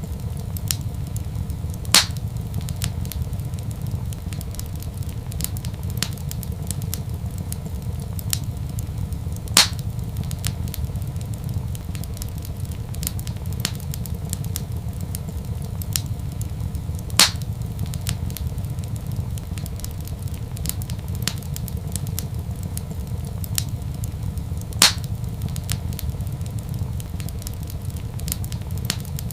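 Wood fire crackling with many small snaps over a low steady rumble. Four louder pops fall at even intervals about seven and a half seconds apart.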